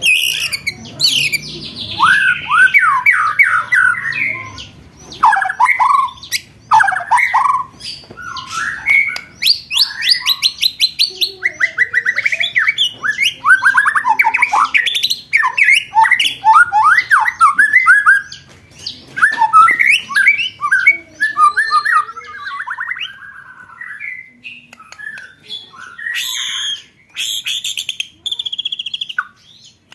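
Recorded songbird song played as training material for competition birds: a dense run of fast, repeated trills and sharp whistled notes. It thins out for a few seconds after the middle, then picks up again with loud, rapid buzzy notes near the end.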